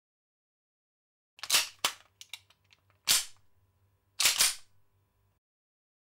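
Firearm sound effect: four sharp cracks, unevenly spaced over about three seconds, with a few lighter clicks between the second and third.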